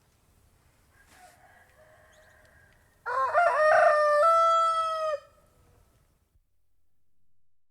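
A domestic rooster crows once, about three seconds in, for roughly two seconds: a rough broken opening, then a long held note that drops at the end. Fainter calls come before it.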